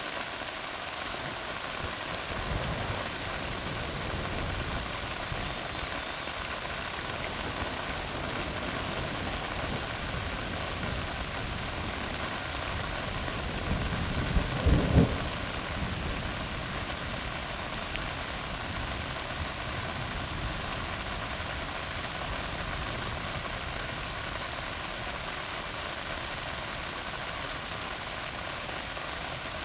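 Steady rain falling on a tar road, with a short low rumble of thunder about halfway through that is the loudest moment.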